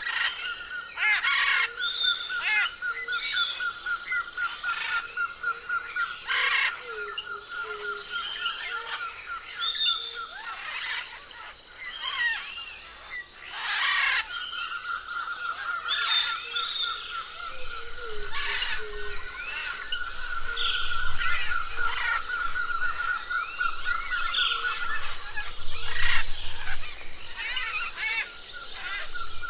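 A flock of parrots chattering and calling, with many short gliding chirps and a few loud harsh screeches, over a steady fast trill held at one pitch that breaks off twice.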